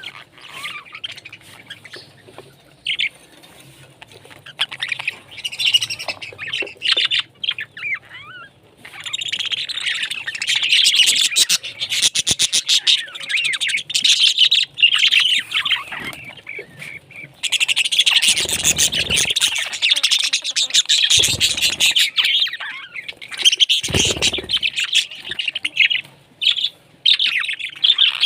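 Parrots chirping and chattering, sparse at first and then a dense, continuous chatter from about nine seconds in, with occasional squawks. A few low thumps come in the second half.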